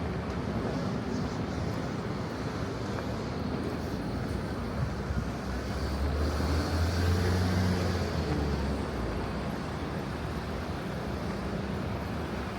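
Steady city traffic ambience, with a low engine hum from a passing vehicle that swells and fades between about six and nine seconds in.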